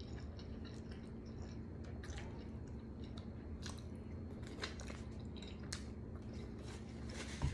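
Faint mouth sounds of a man chewing and sucking taco sauce off his fingers: scattered small wet smacks and clicks over a steady low hum.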